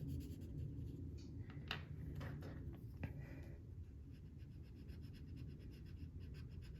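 Faint strokes of a marker on paper as it outlines a drawing's pencil lines.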